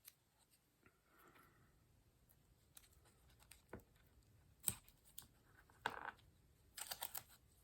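Faint handling of paper and washi tape: scattered soft rustles and small clicks, a few slightly louder ones in the second half.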